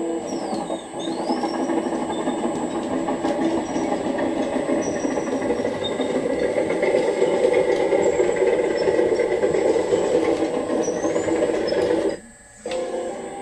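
Radio-controlled model hydraulic excavator: its battery-powered electric motor and small hydraulic pump run steadily. The motor cuts out for about half a second near the end, then starts again.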